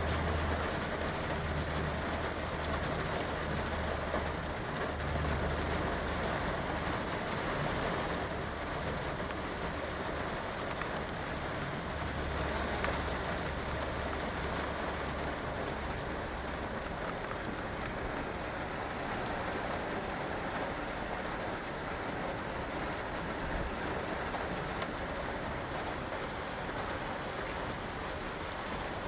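Steady rain pattering on a van's roof, with a low rumble coming and going during the first half.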